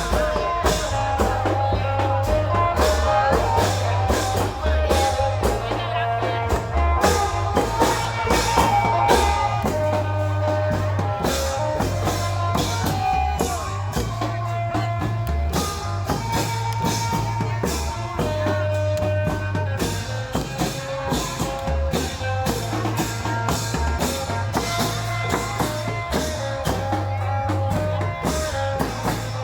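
Isan klong yao long-drum band playing: dense, rapid drum strokes over a steady booming bass and a sustained melody line.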